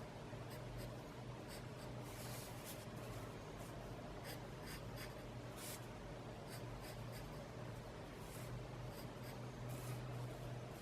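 Pen drawing on sketch paper: a string of short, irregular scratchy strokes, a few of them longer, over a faint steady hum.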